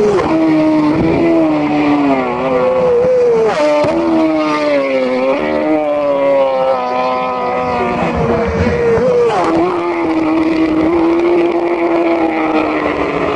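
Superbike racing motorcycle engine at full throttle, its pitch climbing and then dropping back several times as the rider shifts through the gears.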